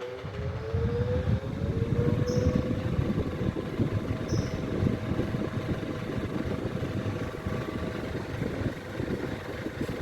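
Arno Alívio 30 cm desk fan running, its motor hum rising in pitch as it spins up and levelling off about two and a half seconds in, over a steady rush of moving air.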